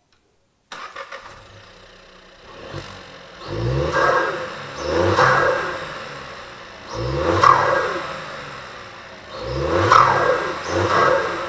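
Volkswagen Up TSI's turbocharged 1.0-litre three-cylinder engine, breathing through a freshly fitted open cone air filter, starts under a second in and settles to idle. It is then revved about five times, each rev rising in pitch and falling back.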